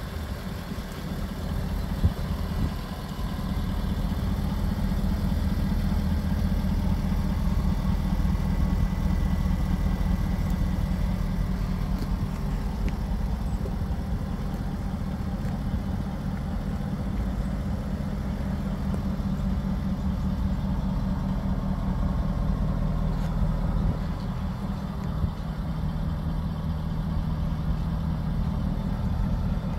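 2014 Jaguar XK's 5.0-litre V8 idling steadily, a low even engine note, with one brief knock about two seconds in.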